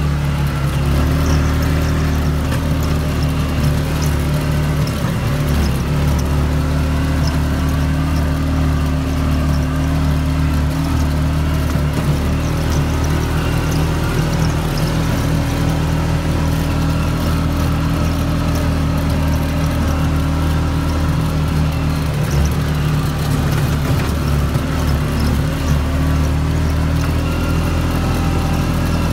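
CFMOTO off-road vehicle's engine running steadily under way on a dirt trail, its pitch holding nearly even with brief small changes in speed.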